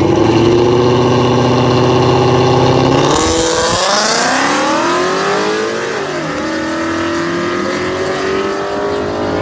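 Drag-racing vehicle's engine held at steady high revs, then launching about three seconds in. The revs climb, drop at a gear shift about six seconds in, then climb again.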